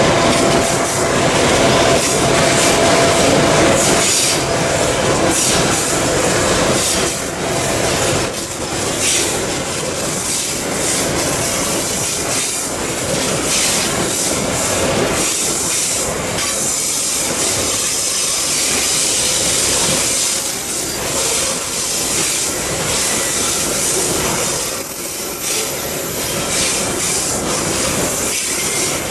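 Long coal train of wagons rolling past slowly: a steady rumble of steel wheels on rail with irregular clacks over the joints, and a thin high wheel squeal in the last third.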